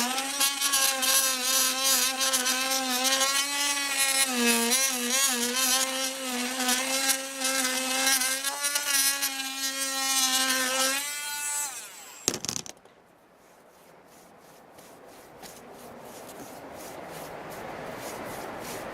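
Power tool cutting out old caulking along a joint, running with a steady whine that wavers briefly about four seconds in, then winding down around eleven seconds in. A click follows, then a quieter rubbing over the joint.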